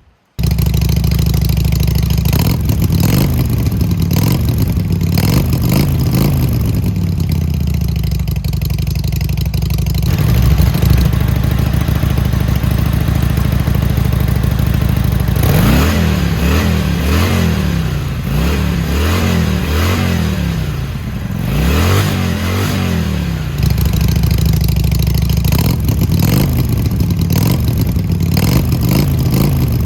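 Harley-Davidson Sportster XL883L's V-twin running through its newly replaced mufflers, idling steadily, with a run of short throttle blips about halfway through, each rev rising and falling back to idle.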